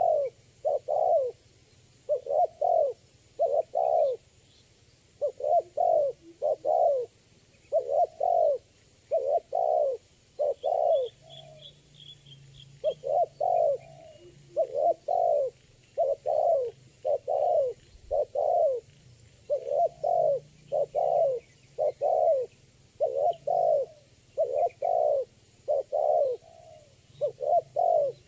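Spotted dove (tekukur) cooing over and over: a long, steady run of short coos, about one or two a second, often in pairs.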